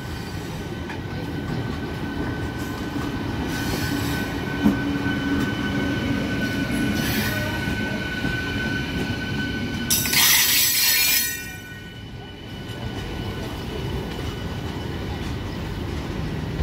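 Electric multiple-unit local train carriages rolling past close by: a steady rumble of steel wheels on the rails with a thin high steady squeal over it. A sharp click comes about five seconds in, and about ten seconds in a loud harsh screech-like burst lasts a second and a half before the rumble settles lower.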